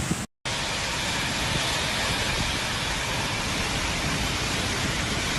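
Steady, even rushing noise of a violent windstorm, a hiss without distinct gusts, coming in after a brief dropout at the start.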